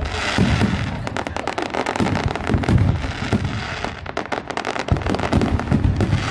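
Aerial fireworks bursting overhead: a dense, rapid crackle of many small sharp pops over repeated low booms.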